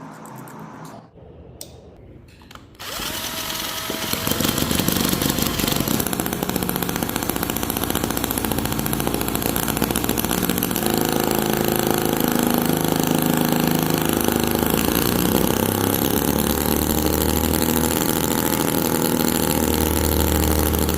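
A small 5cc petrol engine starts about three seconds in and then runs fast with a loud, buzzing whine, its pitch wavering up and down as the speed changes.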